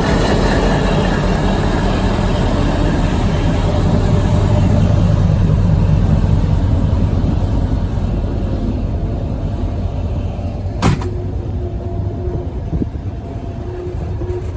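Diesel locomotive engine working, a heavy low rumble that builds to its loudest about five seconds in and then slowly eases. A single sharp knock comes near eleven seconds in.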